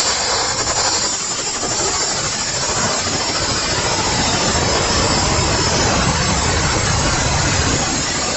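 Jet engine running under test, a loud steady rushing hiss over a low rumble, that stops suddenly at the end.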